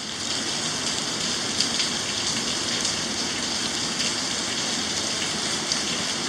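Rain falling steadily during a thunderstorm, an even hiss.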